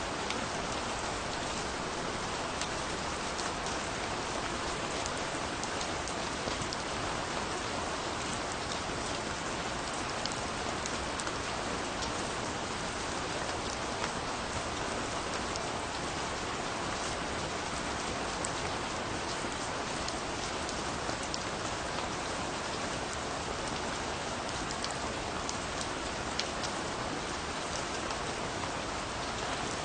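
Steady rain falling, an even hiss with many fine drop ticks on a hard surface, with no thunder and no music.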